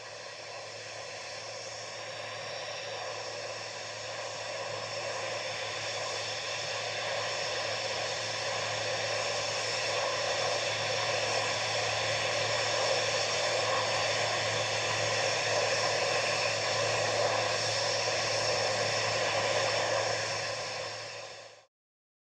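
Steady rushing, jet-like noise with a low hum underneath, slowly swelling louder and then cutting off suddenly near the end.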